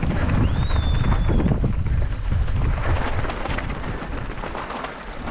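Wind buffeting a helmet-mounted action camera on a downhill mountain-bike run, with the tyres rattling over rough ground. A brief high squeal comes about half a second in.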